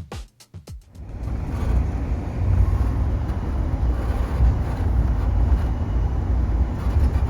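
Passenger train under way, heard from inside the coach: a steady low rumble of the car rolling on the track, rising in about a second after a few closing beats of music.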